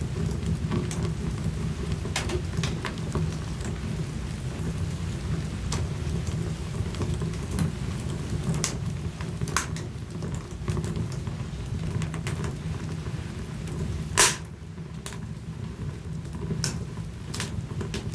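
Wood fire burning in a fireplace: a steady low rumble of flames with frequent irregular crackles and snaps, and one louder pop about three quarters of the way through.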